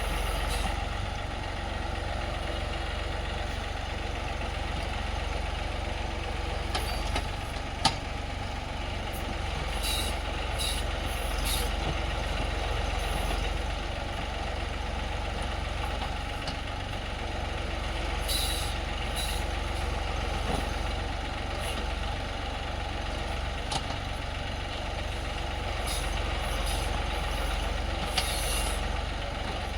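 Tractor engine running steadily, with a few brief hisses breaking in over it.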